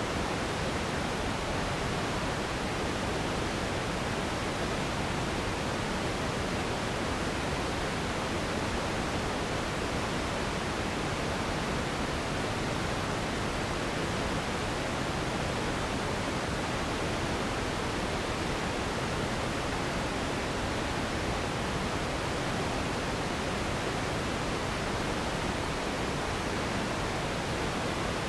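Steady generated noise for sleep: an even, unchanging hiss spread from low rumble to high treble, with no events or variation.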